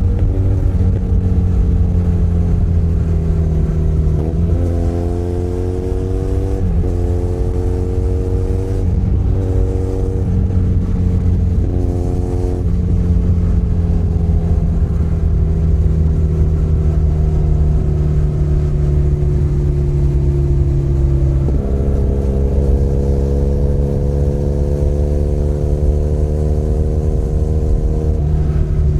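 Benelli Leoncino 500 Trail's parallel-twin engine running on the move, its pitch climbing and stepping through gear changes in the first dozen seconds, then sinking slowly as the bike slows, then climbing again after a jump about 21 seconds in. A steady low rumble runs underneath.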